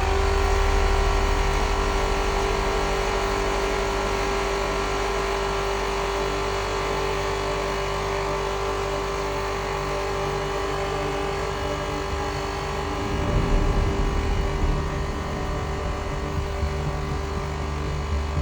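Rotary motor-generator running with a steady whine over a low hum; about two-thirds of the way through it turns rougher and uneven.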